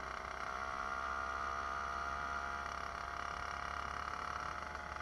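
A small 66cc motorized-bicycle engine running steadily, with a slight rise in pitch and level about a second in that eases off again.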